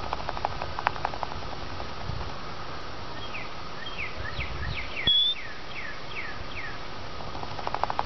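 A bird gives a run of about nine short, falling high chirps through the middle, with one brief louder whistle just past halfway. At the start and again near the end come quick crackles and rustles, as an American robin shifts its wings and settles into its twig-and-grass nest.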